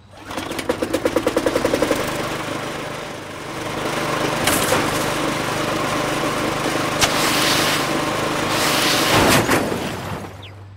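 Petrol lawnmower engine starting with a rapid sputter, then running steadily with several louder rough bursts, and cutting out near the end.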